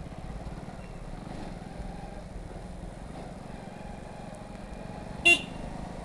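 Motorcycle engine running at a steady speed while riding, with a short, loud, high-pitched beep a little after five seconds in.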